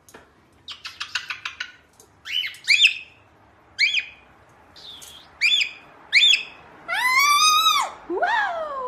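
A bird calling: a quick run of chirps, then about half a dozen short, harsh squawks that rise and fall. Near the end comes one longer arched squawk and a falling call.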